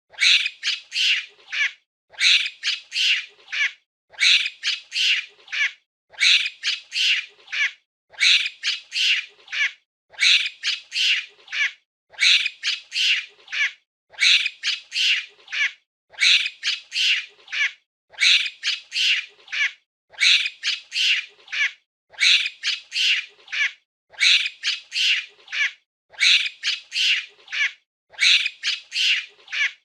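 Monkey calls: a quick run of several high-pitched shrieking calls, repeated in the same form about every two seconds with short gaps between.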